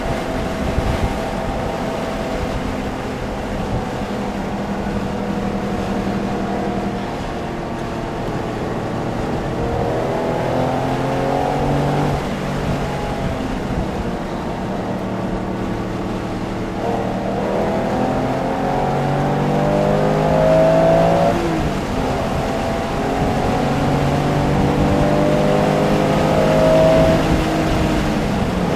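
Porsche engine heard from inside the car at track speed, revving up through the gears with its pitch climbing, then dropping back at each shift and braking zone, several times over.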